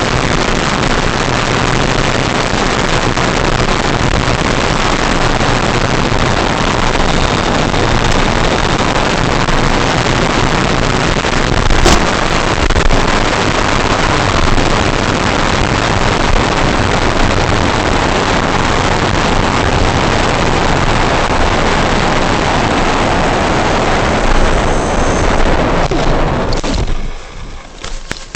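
Rushing wind and electric motor-and-propeller noise from an RC Cessna 182 in flight, heard loud and steady through an onboard camera, with a single sharp click about halfway. Near the end the noise falls away abruptly.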